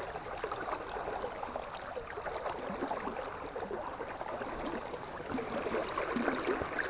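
River water running and babbling steadily, a busy, splashy rush of current.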